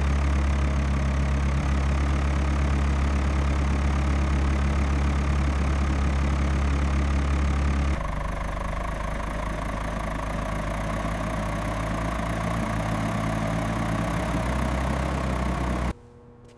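An engine idling with a steady low hum, in two stretches that change in tone about halfway, cutting off abruptly near the end.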